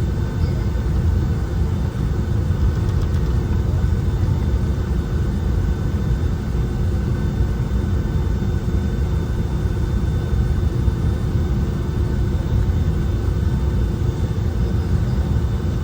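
Steady jet engine and airflow rumble inside the cabin of a Boeing 757-200, with a faint steady whine above it.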